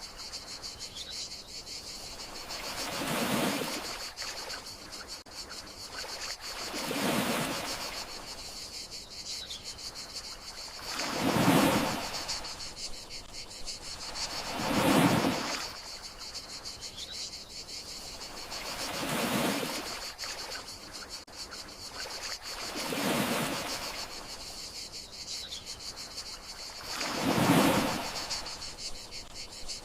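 Gentle sea waves washing onto the shore in a slow, even rhythm, one about every four seconds, over a steady high chorus of crickets.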